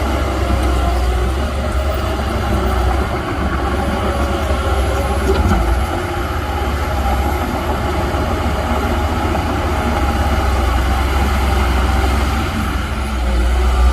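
Heavy diesel earthmoving machinery running steadily: a deep, continuous engine drone with mechanical clatter over it.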